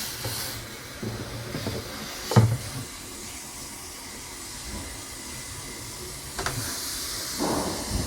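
Toyota Avalon electric fuel pump running under scan-tool command, pushing water-contaminated fuel out of the opened fuel line into a container with a steady hissing spray and a low hum. A sharp knock comes about two and a half seconds in, and the hiss grows louder near the end.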